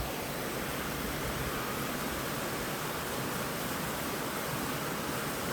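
A steady, even hiss of noise that holds unchanged throughout.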